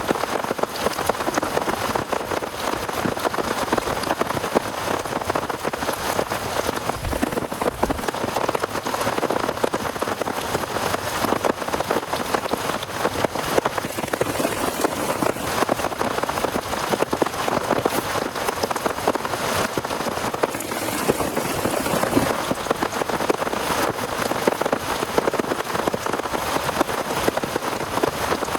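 Heavy rain falling steadily on a surface, a dense, even patter of drops.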